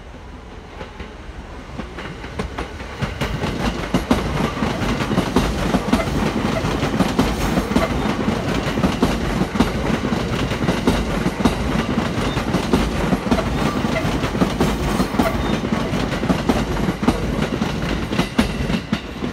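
JR East E231-series electric commuter train departing and passing close by, growing louder over the first few seconds and then running steadily, its wheels clattering over the rail joints and points.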